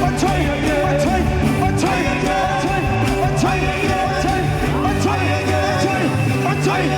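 Live gospel band music with drums, a steady bass and a melody of repeatedly bending, sliding notes, with some singing.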